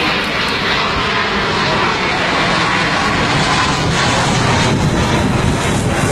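Airplane engines running loud and steady as the aircraft goes by, a continuous rushing noise.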